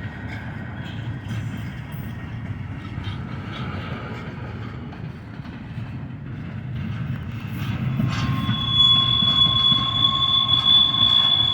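Intermodal stack train rolling past: a steady low rumble of wheels on rail with scattered clicks. About eight seconds in, a steady high-pitched wheel squeal sets in and grows louder.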